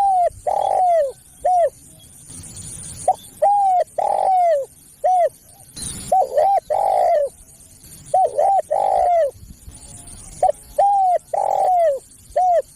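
Spotted dove cooing, phrase after phrase of a few short coos ending in a longer falling coo, repeated about every two to three seconds. This is a dove-caller recording used to lure wild spotted doves.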